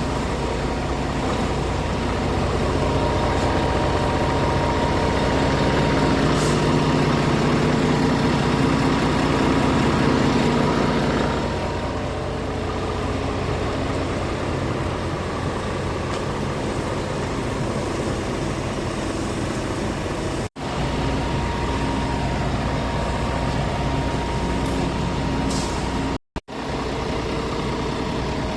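Scania R450's 13-litre inline-six diesel idling steadily, louder for a stretch in the first half. The sound cuts out briefly twice in the second half.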